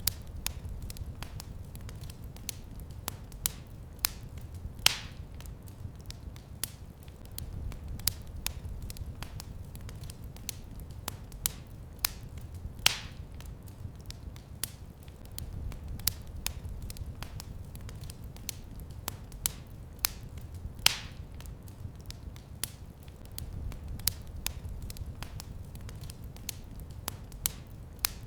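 Wood fire in a fireplace crackling steadily, with frequent small pops and a few louder snaps, over a low rumble of the flames.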